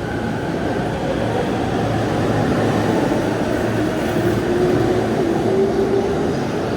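Electric commuter train running through the station: a steady, loud rumble with a motor whine whose pitch shifts, rising slightly after about four seconds.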